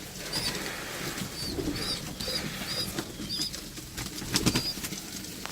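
Pigeons in a loft: short high squeaks repeating every half second or so, the begging squeak of a young pigeon, over low cooing, with a few wing flaps and knocks past the middle.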